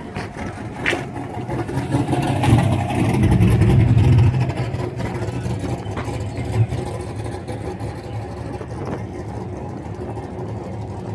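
A car engine running, growing louder for a couple of seconds about two seconds in, then settling to a steadier, quieter level.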